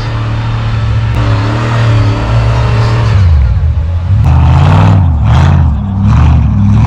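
Off-road vehicle engine running steadily, then revved hard from about three seconds in, its pitch rising and falling with each surge of throttle under load.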